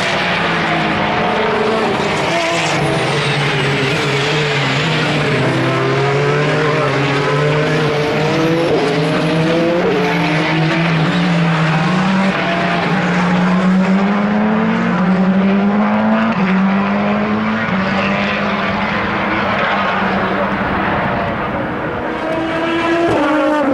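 Endurance race cars running at racing speed, several engines heard at once, their pitch repeatedly climbing and dropping as they rev and change gear.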